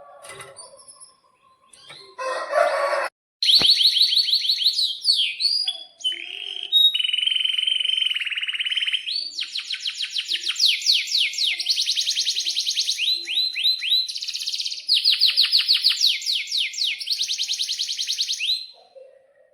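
Domestic canary singing a long run of fast trills: rapid repeated downward-sweeping notes, with a lower buzzing trill about a third of the way in. A short harsh burst comes just before the song begins.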